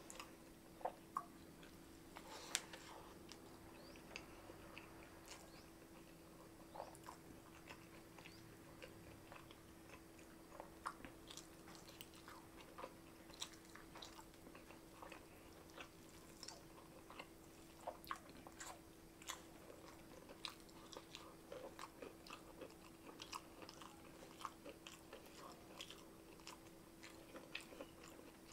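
Faint chewing and mouth sounds of a person eating rice and semur jengkol (dogfruit stew) by hand: soft, irregular wet clicks and smacks, over a faint steady hum.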